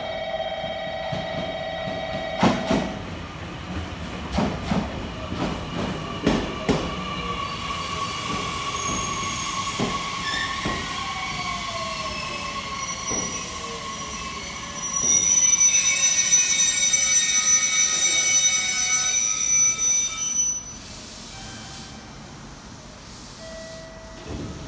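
JR Kyushu stainless-steel electric train pulling into a station: wheels clacking over rail joints, then a falling whine as it slows. About fifteen seconds in comes a loud high-pitched wheel and brake squeal lasting about five seconds, which cuts off as the train comes to a stop.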